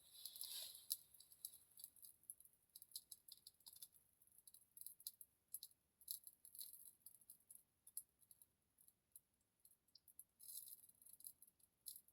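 Small ritual fire crackling faintly, with irregular sharp pops and ticks and a brief hiss near the start and again near the end.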